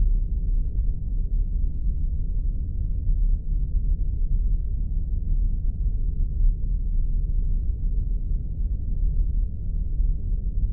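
Spaceship sound effect: a steady, deep rumble.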